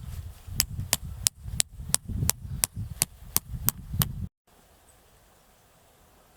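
A run of sharp, evenly spaced knocks, about three a second, over a low rumble, stopping abruptly about four seconds in, followed by faint background noise.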